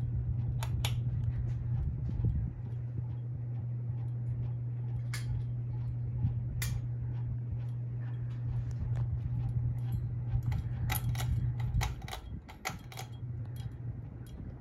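Hampton Bay Carousel 52-inch ceiling fan running, with a steady low motor hum and air rumble. Scattered sharp clicks sound throughout, and a quick run of clicks comes near the end as the rumble eases.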